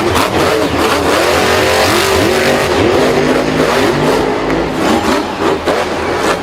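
Several vehicle engines revving at once, their pitch rising and falling and overlapping.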